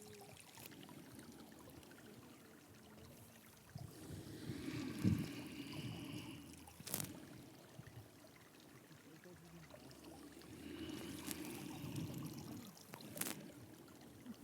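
Two slow, deep breaths, each swelling and fading over a couple of seconds, paced with the rounding and arching of the back in cat-cow pose. Two short clicks, one in the middle and one near the end.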